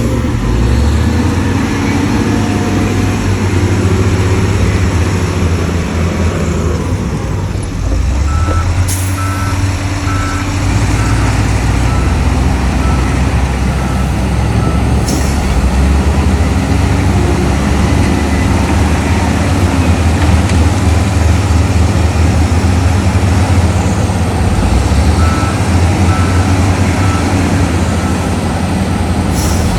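Heavy diesel engines of dump trucks and a bulldozer running under load, with a reversing alarm beeping in two stretches, around a third of the way in and again near the end. A few short sharp sounds break in over the engine noise.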